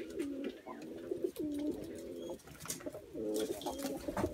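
Doves cooing: a run of low, short coos one after another, with a few faint clicks between them.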